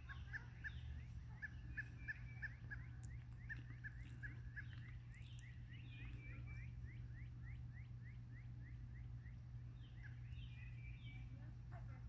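A bird calling a long series of short, rising notes, about three or four a second, with a brief break and a last few notes near the end, over a steady low hum.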